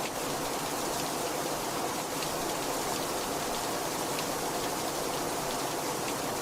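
Steady heavy rainfall, a dense even hiss with scattered individual drops pattering on a surface.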